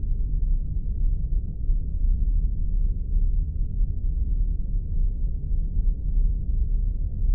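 Spaceship engine-hum sound effect: a steady, deep rumble that holds an even level throughout.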